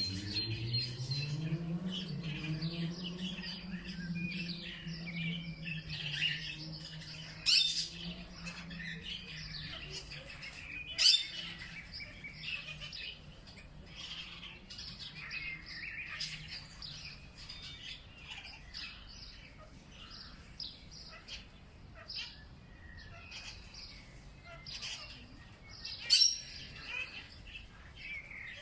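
Many small birds chirping and calling together in a busy chorus, with a few sharp, loud calls standing out. Under them a low droning hum rises in pitch at the start, then holds and fades away by about halfway.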